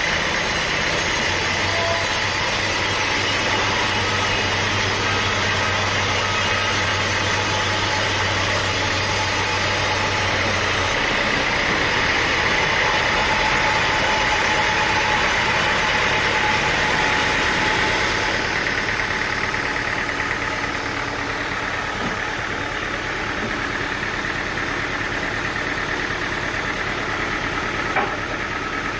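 Sawmill engine running steadily. Its sound changes about eleven seconds in, when a low hum drops out, and it eases somewhat after about eighteen seconds. A single short knock comes near the end.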